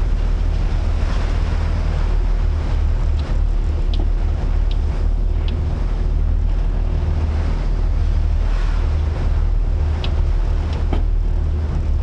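Strong wind buffeting the microphone over rough sea waves, with a heavy, steady low rumble.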